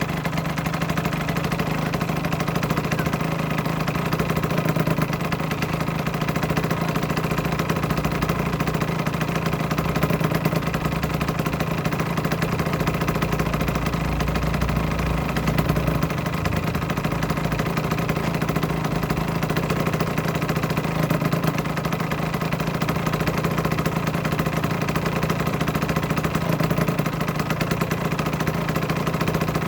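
Aprilia RS125's single-cylinder two-stroke engine idling steadily, holding an even note without revving.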